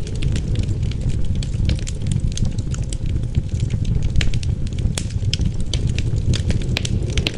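Wood fire crackling and popping with many irregular sharp snaps, over a steady low rumble of wind.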